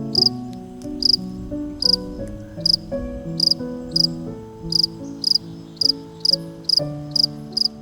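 High insect chirping, short chirps in quick twos and threes repeating steadily, over background music of slow held notes.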